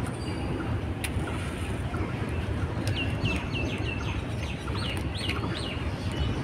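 Freight train's covered goods wagons rolling past with a steady low rumble and a few sharp clicks. Partway through, a bird calls over it in a quick run of about seven short high chirps, each falling in pitch.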